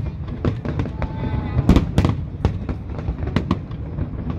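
Aerial fireworks bursting in a rapid, irregular series of sharp bangs over a continuous low rumble, with a faint whistling glide about a second in.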